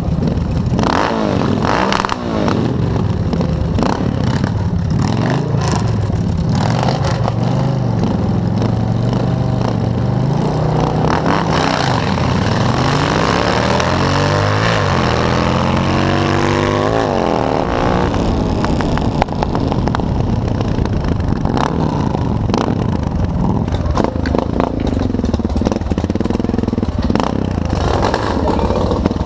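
Motorcycle engines running at a drag strip. About halfway through, one engine revs up with a rising pitch for several seconds, then drops off.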